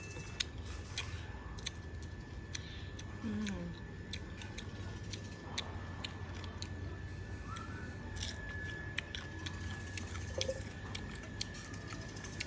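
Crunching and chewing of crispy fried bullfrog: short, sharp, irregular crunches, often several a second. A faint steady high tone runs underneath.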